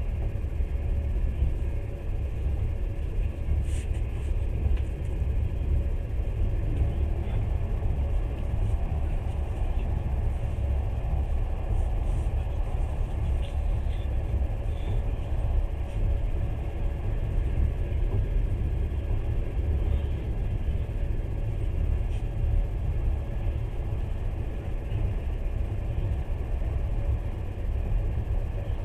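Steady rumble of a passenger train running along the track, heard from inside the carriage, with a few faint clicks.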